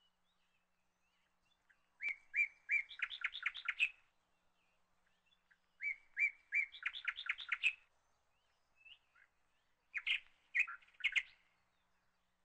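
A songbird singing three short phrases about four seconds apart, each opening with a few separate chirps and running into a quick trill.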